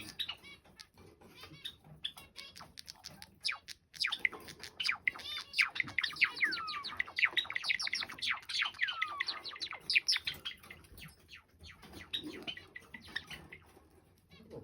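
Two male Java sparrows singing together: scattered clicks and chirps, then a few seconds of dense song made of rapid falling whistled notes and clicks, which thins out again near the end.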